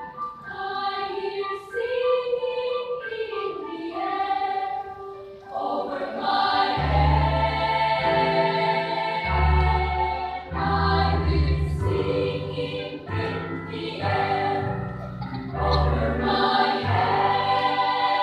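Children's choir singing a sacred choral piece, with deep low notes joining about seven seconds in and the sound growing fuller and louder.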